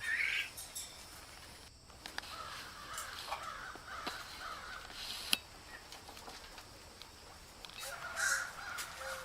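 Captive birds squawking in short calls, one right at the start and another near the end, with scattered calls and a couple of sharp clicks between.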